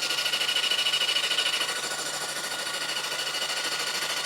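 Electric starter motor cranking a 1973 Honda CB750's four-cylinder engine, powered straight from a battery: a steady whine with a quick, even pulsing as the engine turns over, freshly freed after being seized.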